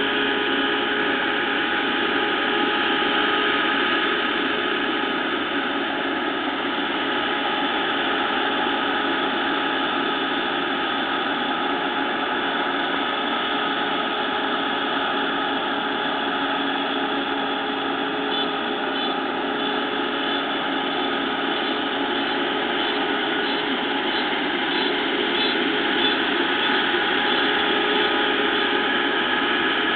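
Combine harvester running steadily at work in a rice field: a constant machine drone with several steady whining tones on top.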